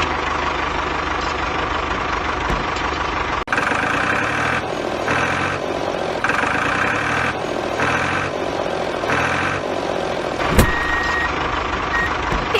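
Mini tractor engine running steadily, with a reversing alarm beeping five times from a few seconds in. A single sharp knock sounds near the end.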